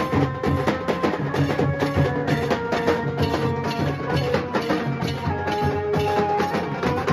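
Nashik dhol band drumming fast, even strokes, with a sustained melody played over the beat.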